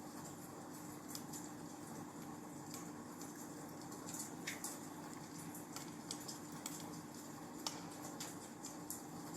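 Wood fire in a fireplace crackling: irregular small pops and snaps over a faint steady hiss, with one sharper pop about three-quarters of the way through.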